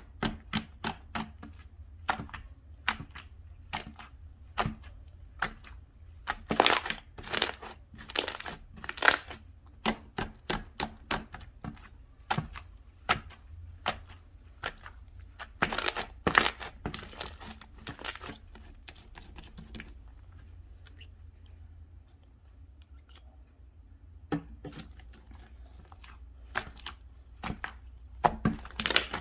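Slime being squeezed, poked and stretched by hand, giving a run of sticky clicks and crackly pops. The pops come in dense flurries, then thin out for a few seconds about two-thirds of the way through.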